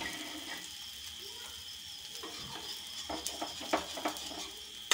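Tikkis sizzling in mustard oil on a hot tawa (flat griddle), a steady hiss. In the second half a metal spatula scrapes and taps against the pan several times as the tikkis are turned.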